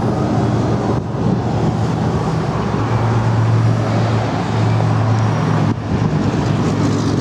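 A 2011 Harley-Davidson Fat Bob's fuel-injected 96-cubic-inch V-twin idling steadily through short Vance & Hines exhaust pipes.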